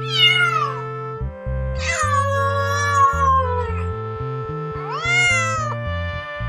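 A cat meowing three times over background music: a short falling meow, then a long drawn-out meow, then a shorter rising meow.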